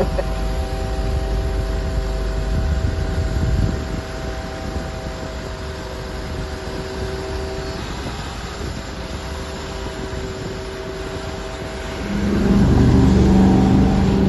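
A vehicle engine running with a steady hum and low rumble, growing louder about twelve seconds in, its pitch stepping up near the end.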